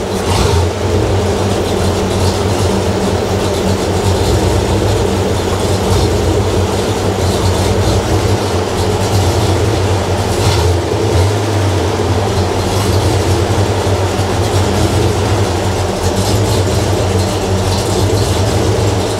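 Freshly rebuilt Ford 302 small-block V8 with a Holley four-barrel carburettor idling. It has a small idle surge, hunting between lean and rich, which the owner blames on the carburettor's metering block.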